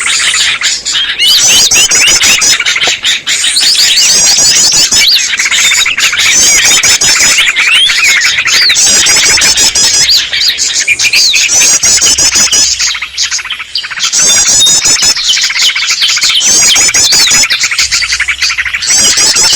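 Dense, loud chorus of small songbirds: agitated yellow-vented bulbul chatter overlaid with the chirps and twitters of many other small birds, as used in a bird-lure recording. A high twittering phrase repeats every second or two throughout.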